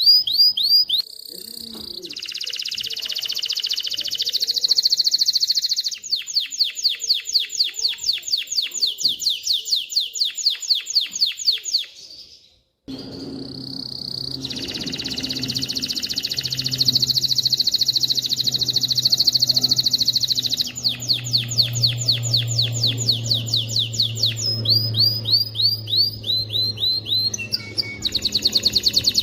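Male domestic canary singing: long fast runs of repeated chirping notes and trills. It breaks off briefly about twelve seconds in, then carries on over a low steady hum.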